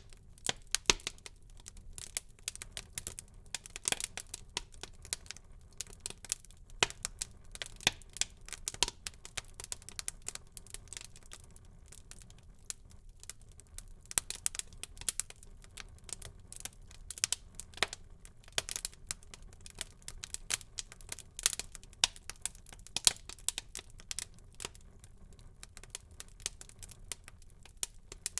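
Wood fire burning in a fireplace, crackling with many irregular sharp pops and snaps over a soft low rush of the flames.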